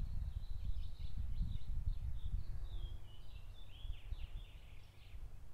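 Songbirds chirping and twittering in rapid short calls and quick slurred notes that stop shortly before the end, over a low rumble.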